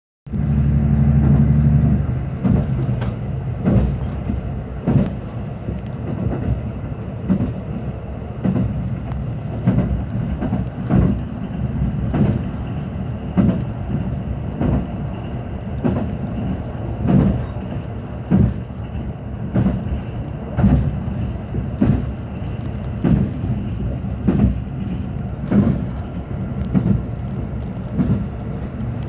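A KiHa 85 diesel express train running, heard from aboard: a steady rumble with the wheels clacking over rail joints about once a second. A stronger low engine drone is heard for the first two seconds.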